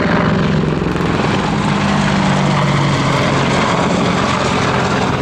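Boeing AH-64 Apache attack helicopter flying: the steady, loud noise of its four-blade rotor and twin turbine engines, its low pitch wavering slightly.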